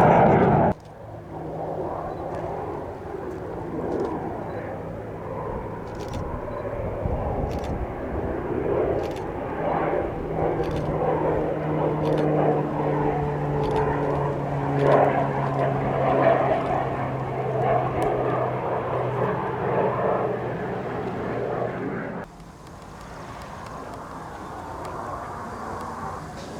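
An aircraft's engine drone with steady tones that slowly fall in pitch as it flies by. The sound drops off suddenly about 22 seconds in, leaving a fainter aircraft hum.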